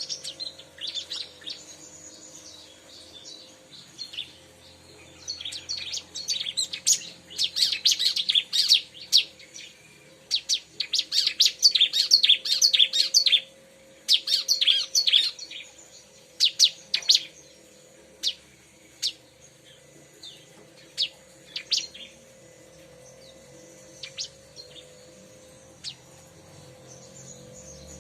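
Bar-winged prinia (ciblek) song: bursts of rapid, high chirping notes that come thick and fast in the middle, then thin out to scattered single notes toward the end.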